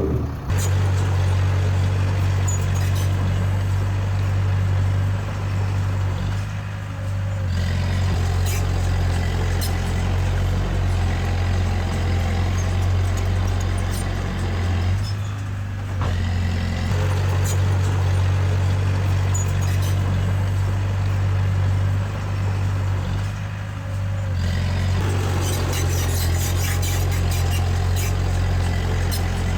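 Diesel engine of a small Komatsu D20A crawler bulldozer running steadily under load. The engine note dips and picks back up about every eight seconds, with metallic clanking near the end.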